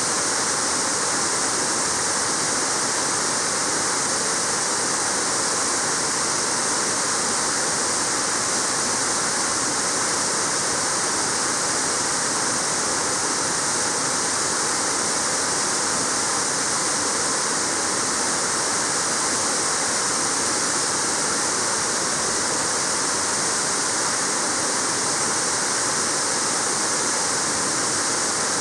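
Waterfall falling into its pool: a steady, unbroken rush of water with a bright hiss on top.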